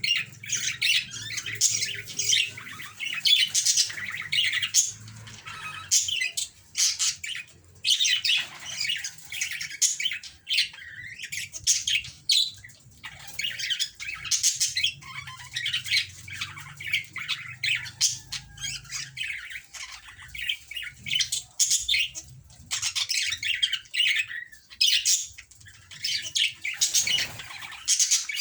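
Pet budgerigars chattering and squawking: a fast, nearly unbroken run of short, high chirps and scratchy calls, typical of budgies during courtship and mating.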